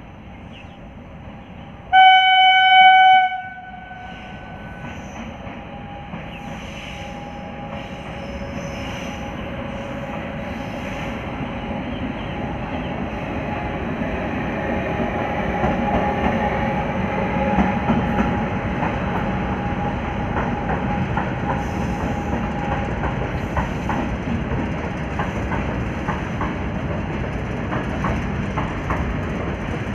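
An Indian Railways electric goods train, with its horn sounding once about two seconds in: a loud, single-pitched blast of about a second and a half. Then the train runs past, its wheels rumbling and the wagons clacking over the rail joints. The noise builds to its loudest a little past the middle and keeps on as the wagons roll by.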